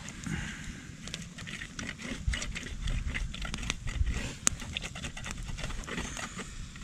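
Irregular crackling and clicking of wood being worked and handled at a campfire, with a few dull thuds about two to four seconds in and a sharp click midway.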